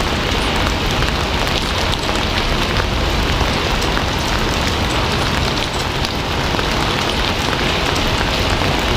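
Steady, heavy rain falling on a surface, a dense even hiss with the patter of many drops.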